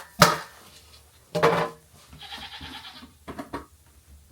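Goats bleating several times, with a sharp knock just after the start.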